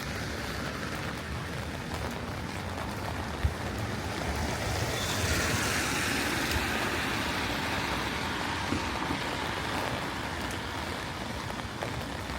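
Steady rain with the hiss of vehicle tyres on a wet road, swelling and fading about halfway through. There is a single sharp tap about three and a half seconds in.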